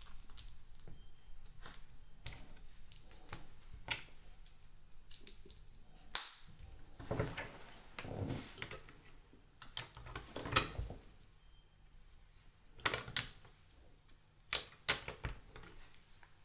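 LEGO pieces being handled and pressed together: irregular sharp plastic clicks, with a few louder clatters of pieces.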